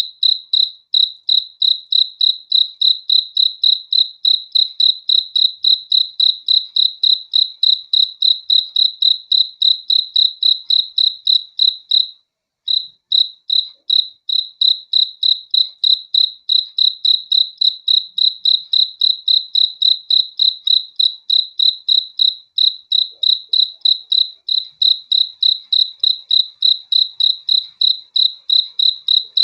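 A cricket chirping in rapid, evenly spaced, high-pitched chirps, with one brief break about twelve seconds in.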